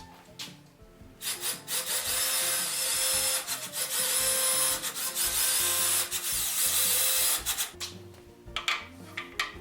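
A power tool runs on wood for about six seconds, starting about a second in and stopping suddenly, over background music. A few light knocks follow near the end.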